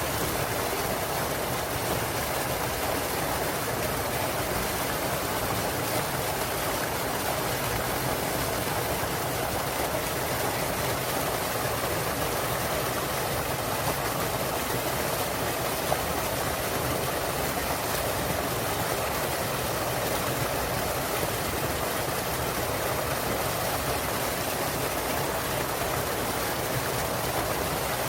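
Small waterfall in a clear mountain stream, water pouring and rushing in a steady, unbroken stream.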